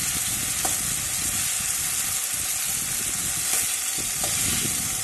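Potatoes, onion and spice paste sizzling in hot oil in a metal kadai while a metal spatula stirs and scrapes the pan, with a few sharp clinks of the spatula. This is the masala being fried down until the oil separates, and it is not done yet.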